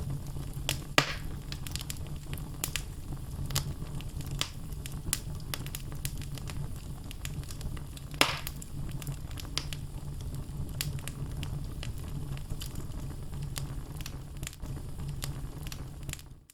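Wood logs burning in a fireplace: a steady low rumble of flames under irregular crackling, with two sharp louder pops about a second in and about eight seconds in. The fire sound fades out abruptly at the very end.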